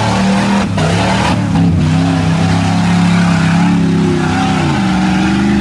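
Chevy 4x4 mud truck's engine revving hard under load as it churns through the mud, climbing in pitch about a second in, holding at high revs, then dropping off near the end.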